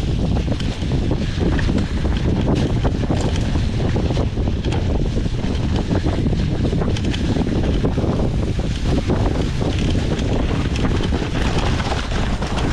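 Steady heavy wind buffeting the microphone: a loud low rumble with rushing hiss and crackle throughout.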